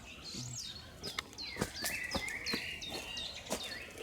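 Small birds chirping and calling: quick high notes that sweep downward, with a buzzy held call partway through. Several sharp clicks sound among the calls.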